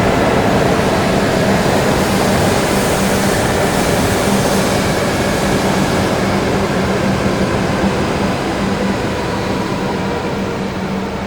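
Shinkansen train moving along an underground station platform: a steady rumble with a low hum, the high hiss dying away about halfway and the whole sound slowly fading.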